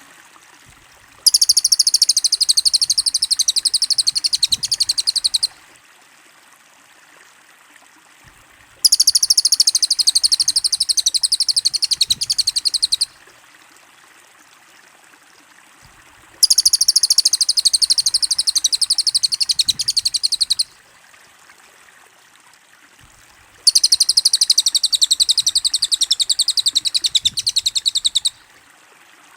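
Cililin birdsong in a fast 'speed' version: a very rapid, high-pitched trill in four bursts of about four seconds each, with pauses of about three seconds between them, over a faint steady hiss.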